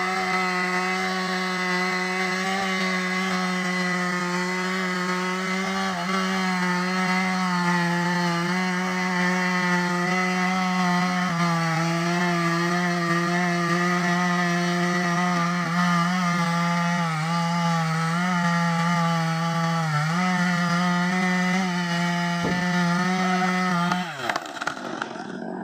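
Stihl MS 382 two-stroke chainsaw held at full throttle cutting wood, a steady high engine note that dips briefly under load a few times. Near the end the throttle is released and the engine note drops away.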